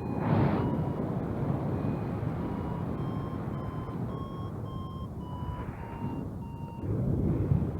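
Flight variometer beeping about twice a second, its pitch rising slightly and then falling, which signals the glider is climbing in lift. Steady wind rumble on the microphone runs underneath, with gusts near the start and near the end.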